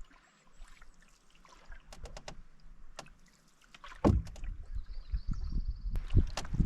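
Canoe being paddled: clicks and drips of the paddle, then a heavy low thump about four seconds in and further knocks of the paddle against the hull. A brief high whistle sounds near five seconds.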